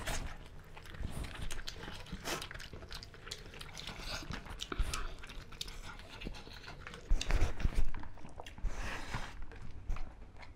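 Close-miked eating: chewing and biting of chicken drumsticks and rice eaten by hand, as irregular wet clicks and smacks, louder for a moment about seven seconds in.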